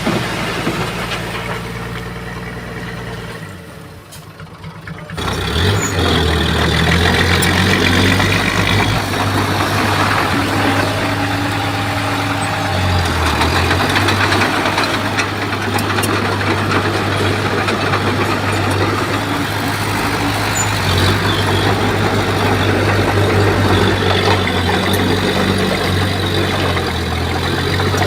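Komatsu bulldozer's diesel engine running. It drops away briefly about four seconds in, then comes back louder and runs steadily, its pitch shifting slightly.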